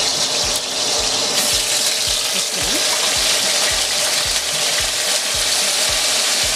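Chopped onions sizzling in hot oil in an aluminium pot, a steady hiss that grows louder about a second and a half in.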